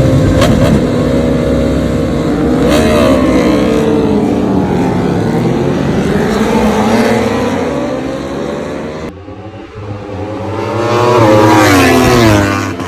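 Yamaha R1M's crossplane inline-four engine and exhaust revving, pitch rising and falling. The sound drops away suddenly about nine seconds in, then swells up again and falls near the end.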